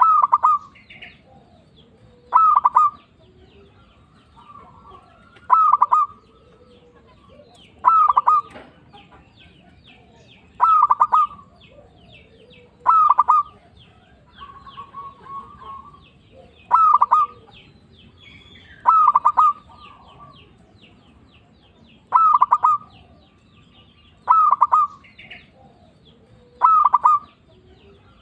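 Zebra dove (perkutut) singing its cooing song, a quick run of short notes repeated about every two and a half seconds, eleven times in all. Faint high chirping runs underneath.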